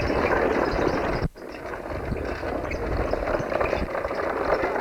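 Steady outdoor noise with low rumble from wind on the camcorder microphone. About a second in it cuts out abruptly, as at a break in the recording, then comes back a little quieter.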